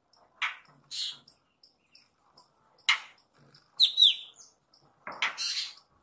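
A bird gives five short, harsh, rasping calls. The loudest, about four seconds in, carries a clear whistled note. A faint high ticking repeats a few times a second behind them.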